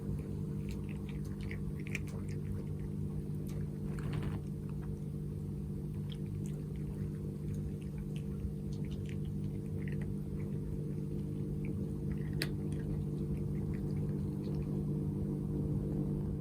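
A cat at a water bowl, lapping and splashing, heard as small irregular wet clicks over a steady low hum.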